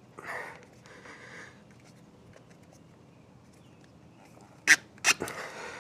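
Two short breathy puffs in the first second and a half, then two sharp clicks a few tenths of a second apart near the end, from parts being handled on an outboard motor.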